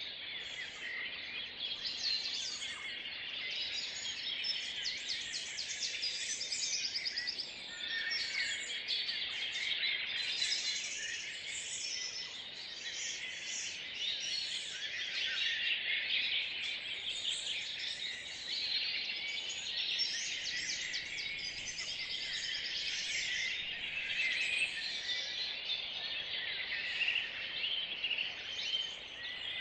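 Dawn chorus of many songbirds singing together, a dense mix of overlapping high chirps, trills and whistled phrases with no single bird standing out.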